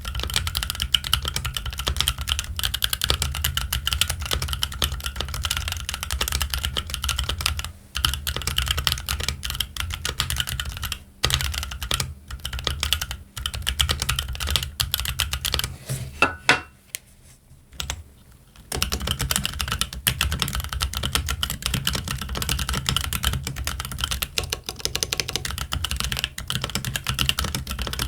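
Fast, continuous typing on a Keychron Q1 aluminium-case mechanical keyboard with Gazzew Boba U4T tactile switches and ABS Cherry-profile keycaps, with a few brief pauses and one longer pause about two-thirds of the way through.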